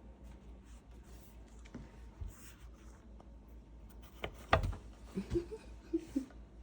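Soft scratching and rustling, with one sharp knock about four and a half seconds in, followed by a few short low pitched sounds.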